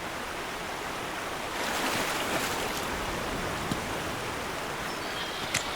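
Steady rushing water of a river, swelling slightly about two seconds in.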